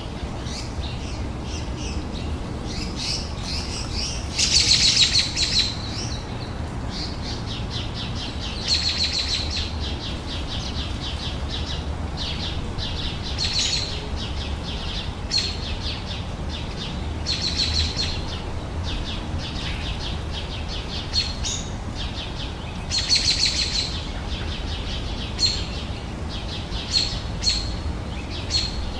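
Songbirds singing outdoors: short, fast chirping trills repeated every couple of seconds, over a steady low rumble.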